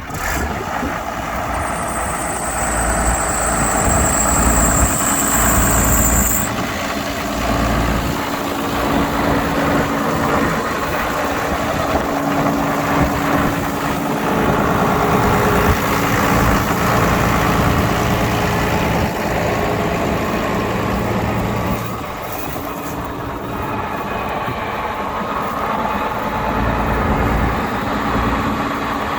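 Case IH 5140 tractor's six-cylinder diesel engine running steadily. A thin high-pitched whine sounds over it for a few seconds near the start.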